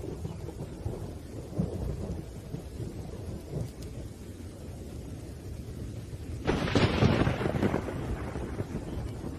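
Thunderstorm: a low, rolling thunder rumble under steady rain, then a sudden loud thunderclap about six and a half seconds in that rumbles away over a couple of seconds.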